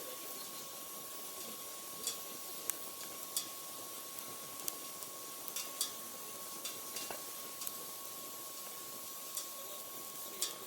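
Wood fire burning in a stainless-steel secondary-combustion fire pit stove: a steady hiss with scattered sharp crackles and pops. A faint steady high tone runs underneath.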